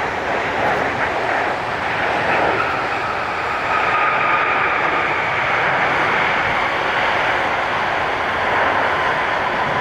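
Twin-engine Boeing 787 jet airliner passing on its landing at the airport: a steady loud rush of jet engine noise with a fan whine that slowly falls in pitch.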